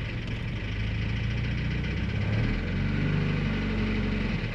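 Boosted Honda G23 four-cylinder engine idling on its first start of the day, with a persistent ticking that the owner believes is piston slap against the cylinder walls, called nasty. The engine note lifts slightly about halfway through.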